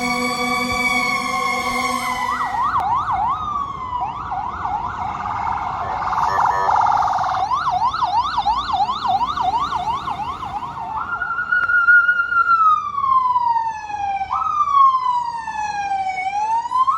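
Fire apparatus responding with sirens: a steady horn blast for the first two seconds, then an electronic siren in a fast yelp with a harsh blare in the middle, switching about eleven seconds in to a slow wail that sweeps down in pitch and jumps back up.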